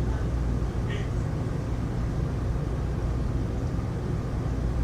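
Heavy rain falling steadily: an even, unbroken hiss with a strong low rumble under it.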